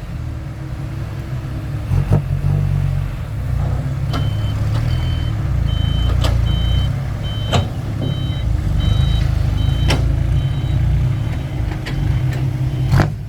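Diesel truck engine running with a strong low rumble. From about four seconds in, a reversing alarm beeps about twice a second for several seconds, with a few sharp knocks along the way.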